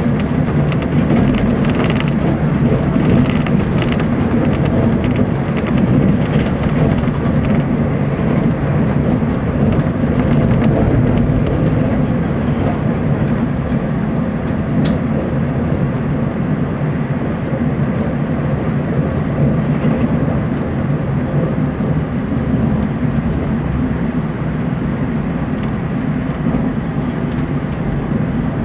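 Steady low running rumble of a Taiwan Railways TEMU2000 Puyuma express electric train, heard from inside the passenger car.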